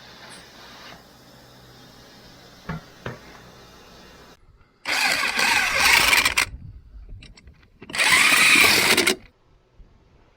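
Tractor engine being cranked over in two short bursts of about a second and a half, each cutting off abruptly, with quieter shop noise before them.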